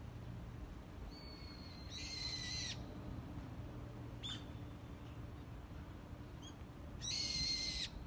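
A bird calling: two loud, level calls of just under a second each, about two seconds in and again near the end, with fainter thin whistled notes in between.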